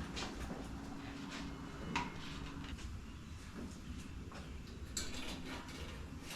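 Scattered clicks and knocks of tools and motorcycle parts being handled and set down during work on a bike, the sharpest about two seconds and five seconds in, over a faint low hum.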